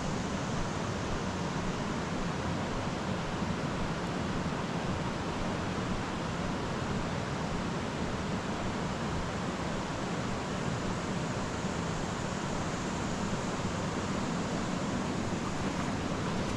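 Creek water rushing steadily over rocks, an even, unbroken rush.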